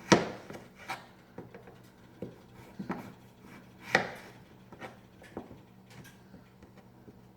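Knife chopping potatoes into fries on a cutting board: irregular, widely spaced cuts, the loudest right at the start and about four seconds in.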